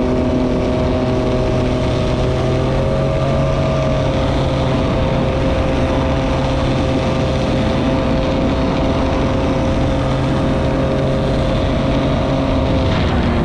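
A jet ski engine runs at a steady cruising speed under a loud, even rush of noise. Its pitch rises slightly about three seconds in and drops off near the end as the throttle eases.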